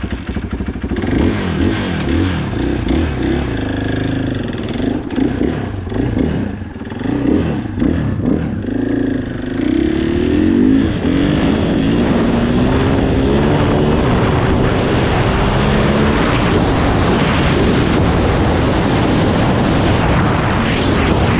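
KTM 500 EXC's single-cylinder four-stroke engine running and revving as the bike pulls away, its pitch rising and falling. About halfway through, a steady rush of wind on the microphone takes over as the bike gets up to speed.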